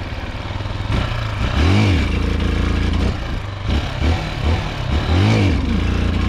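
Chinese 250 cc dirt bike's engine revving up and dropping back twice, about two seconds in and again about five seconds in, as the front is pulled for a wheelie. The engine is short of power and won't lift the front; the owner blames the carburetor.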